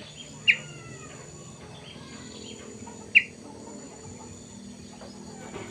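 Caged kutilang sutra, a black-and-yellow bulbul, giving two short, sharp chirps about two and a half seconds apart, the first about half a second in, with a few fainter twittering notes between them.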